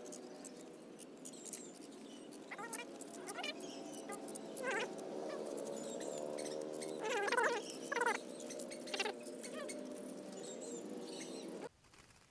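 Small birds caught in a glue trap, sparrows among them, giving short, high-pitched chirps and squeaks over a steady low hum. The sound cuts off abruptly near the end.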